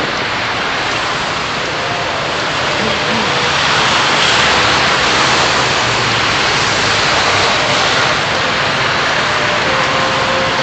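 Steady hiss of a car driving, road and wind noise as picked up by a dashcam, swelling slightly midway.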